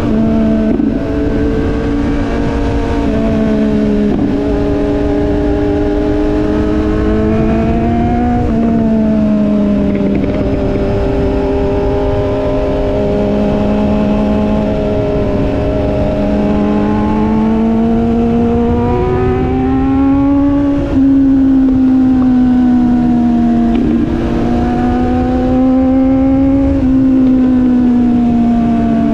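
Motorcycle engine running at cruising speed on the road, its note rising and falling gently several times with the throttle, over a steady wind rumble on the microphone.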